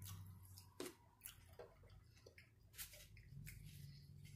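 Faint chewing and wet mouth clicks of people eating sandwiches, a few scattered soft smacks over a low room hum.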